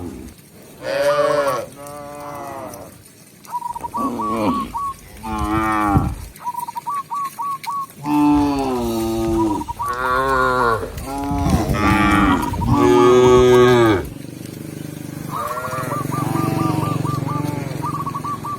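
Cows mooing again and again, loud calls about a second long, arching in pitch and sometimes overlapping, with quieter calling in the last few seconds.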